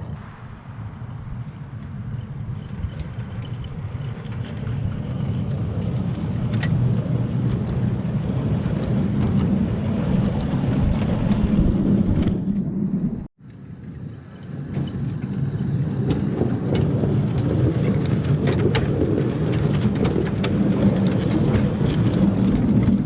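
Ride-on 7¼-inch gauge miniature train running along its track: a steady rumble of wheels on rails with scattered light clicks. The sound breaks off sharply for a moment about 13 seconds in, then builds back up.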